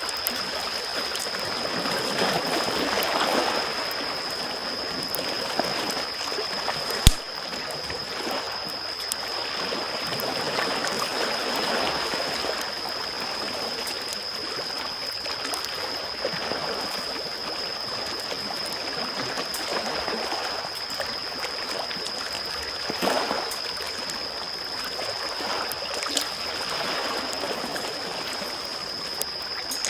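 Small waves lapping and washing in, swelling every few seconds, over a campfire crackling with scattered pops and one sharp crack about seven seconds in. A steady high-pitched tone sits underneath.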